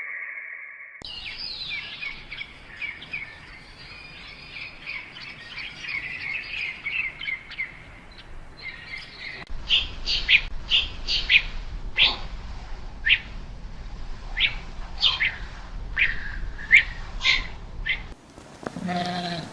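Birds chirping: a dense, continuous chatter of high calls, then, about halfway through, a string of separate short, sharp chirps over a low rumble.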